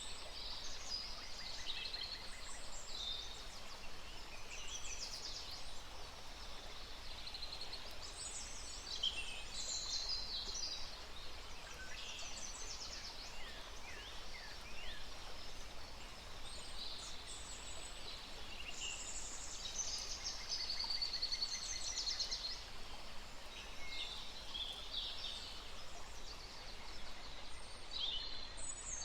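Several birds chirping and calling in short, high-pitched, overlapping calls, over a steady background hiss.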